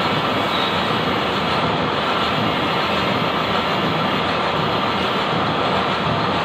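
Steady mechanical running noise, even and unbroken, with no clear rhythm or change in level.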